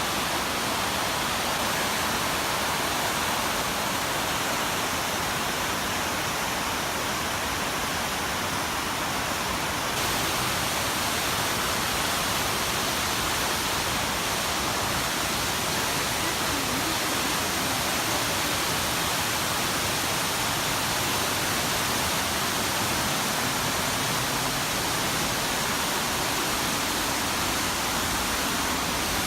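Fukiwari Falls on the Katashina River: water rushing steadily over the falls, an even roar of falling water with a slight shift in its tone about ten seconds in.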